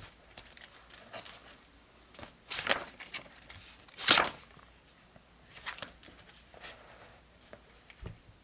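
Paper and stickers being handled while decorating a diary: a series of short rustles and crinkly swipes, with two louder ones about two and a half and four seconds in, and a soft knock near the end.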